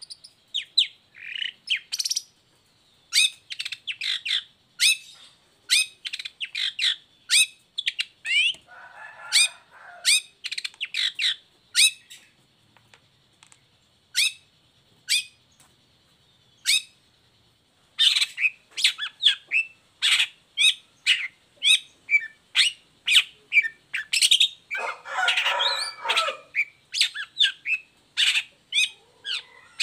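Long-tailed shrike (cendet) singing a rapid run of sharp chirps and calls, broken by harsh rasping bursts about nine seconds in and again about twenty-five seconds in. The song thins to a few scattered notes for several seconds in the middle, then picks up again.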